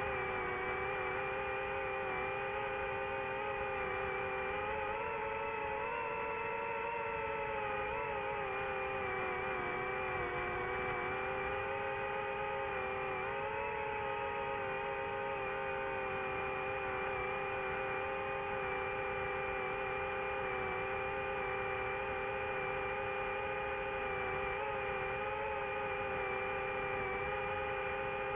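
A boat engine running at a steady speed, a constant drone whose pitch wavers slightly a few times.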